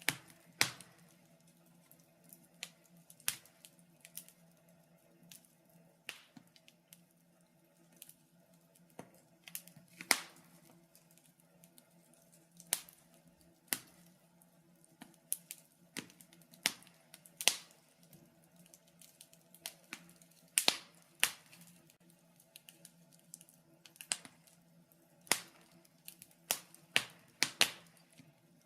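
Wood fire crackling in a fireplace: irregular sharp pops and snaps, one every second or so, over a faint steady low hum.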